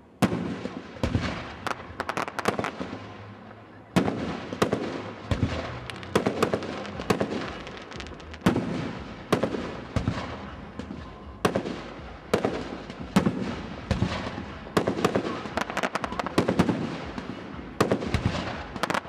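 Fireworks display: aerial shells bursting one after another in sharp bangs with crackle between them, starting suddenly just after the opening and going on in quick succession.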